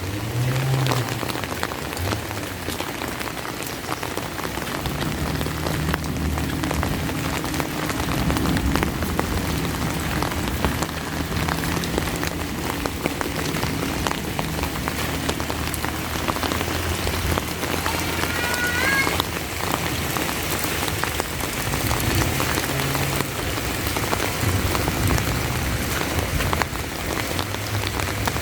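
Steady rain falling, with many individual drops pattering close by, over a low rumble. A short rising chirp sounds once about two-thirds of the way through.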